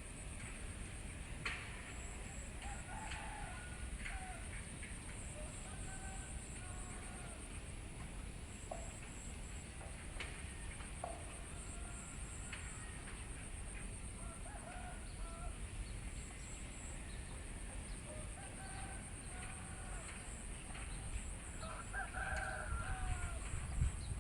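Chickens clucking and calling on and off, louder and busier near the end, over a steady high pulsing buzz and a low rumble.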